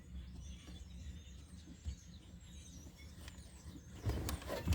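Faint bird chirps over a low steady background rumble, with a couple of light clicks.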